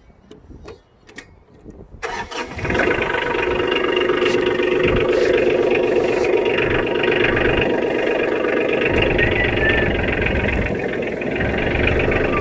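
A compact diesel tractor engine starts about two seconds in and then runs steadily.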